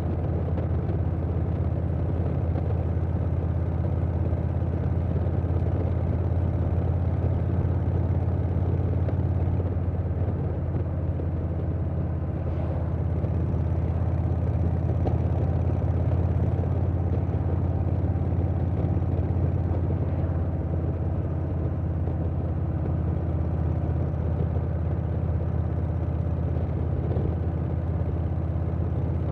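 2020 Harley-Davidson Softail Standard's Milwaukee-Eight V-twin with a Vance & Hines Big Radius 2-into-2 exhaust, running at a steady cruise, with wind rushing over the microphone.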